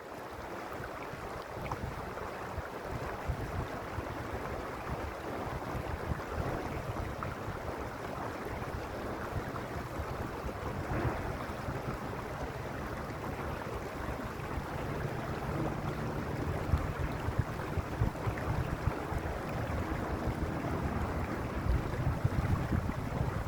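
Mountain stream rushing steadily, a continuous water noise with a low rumble underneath.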